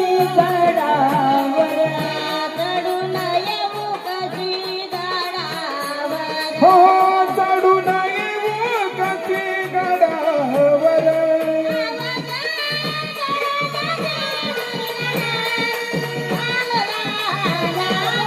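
A woman singing a Marathi folk-style song with instrumental accompaniment and a steady drum beat.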